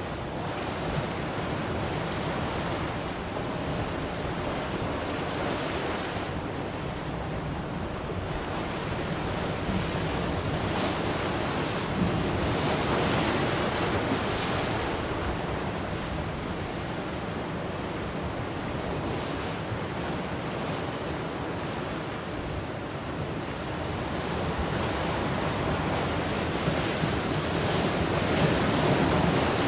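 Ocean waves washing in and breaking on the shore, a steady rush of surf that swells and eases over several seconds, building up near the end.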